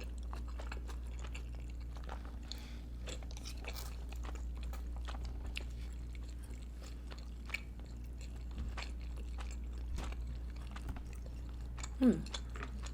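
Close-up chewing of soft, juicy food, with many small wet mouth clicks and smacks over a steady low electrical hum. Near the end there is a short hummed "mm".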